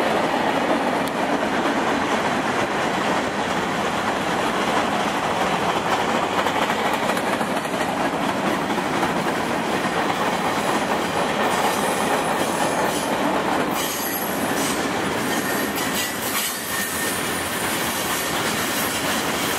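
Freight train's covered hoppers and tank cars rolling past: a steady rumble of steel wheels on rail, with thin high-pitched wheel squeal on the curve from about halfway through.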